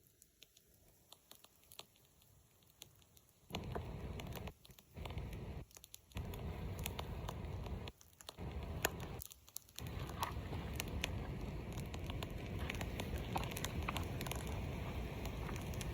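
Wood fire catching: faint crackles at first, then from about three and a half seconds a steady rushing noise with sharp crackles and pops, cut off by a few brief pauses and continuous from about ten seconds on.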